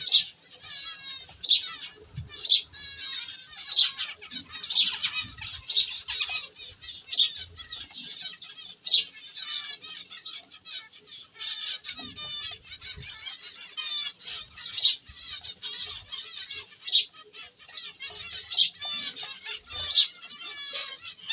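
Many small birds chirping rapidly and continuously, overlapping calls with scattered short clicks among them.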